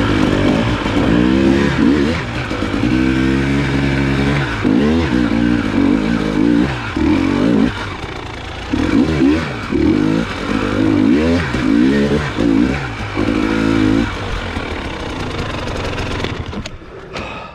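Dirt bike engine revving up and down over and over as the throttle is worked on a rocky trail climb, each rise and fall about a second long. The engine sound drops away and gets quieter near the end.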